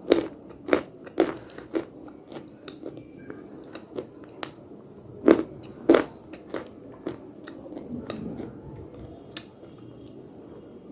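Slate being bitten and crunched between the teeth: several sharp crunches in the first two seconds and two loud ones around the middle, with quieter chewing between them.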